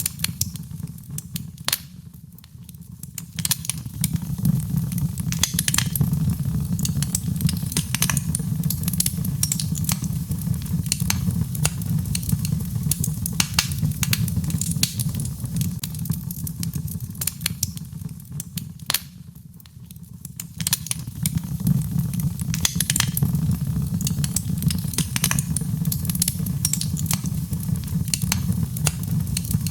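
Birchwood fire burning in a fireplace: dense, sharp crackles and pops over a steady low rumble of the flames. The crackling eases off briefly twice, about two seconds in and again near twenty seconds.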